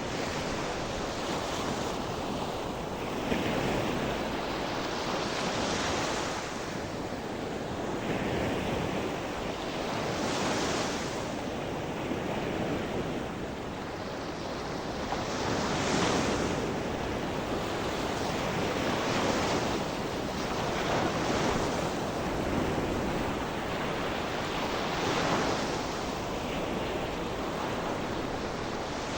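Sea surf: small waves breaking and washing ashore one after another, each swelling and fading every few seconds over a steady wash, with some wind on the microphone.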